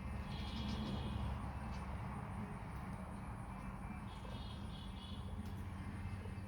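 Outdoor rural ambience: a steady low rumble with two faint bouts of high chirping, one near the start and one about four seconds in.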